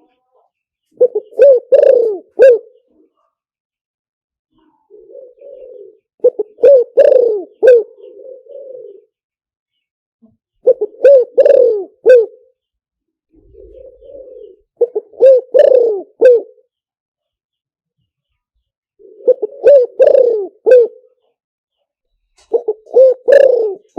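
Spotted dove cooing: a repeated phrase every four to five seconds, each a soft low coo followed by three or four louder, clipped coos. It is a decoy call recording meant to lure wild spotted doves.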